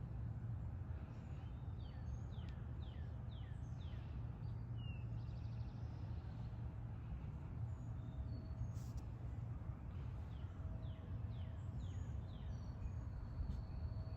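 Wild birds chirping: two runs of quick, downward-sliding notes, one about two seconds in and one around ten to twelve seconds in, with a few thin high whistles. A steady low rumble runs underneath.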